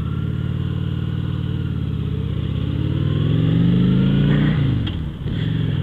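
Motorcycle engine pulling away and accelerating, its pitch climbing steadily. About five seconds in the pitch drops sharply for a gear change, then the engine pulls again at a lower pitch.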